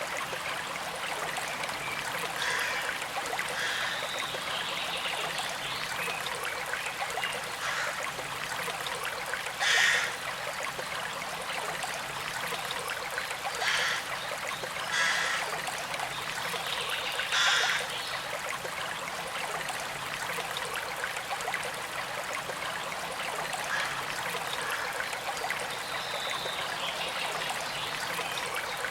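Small creek flowing steadily with a continuous trickle, broken by four brief louder spurts of water in the middle stretch.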